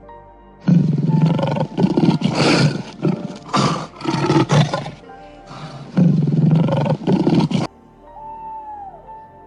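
A large animal's loud rasping roars in several long bursts, with a short break partway through, over soft background music. The roaring cuts off suddenly near the end, leaving only the music.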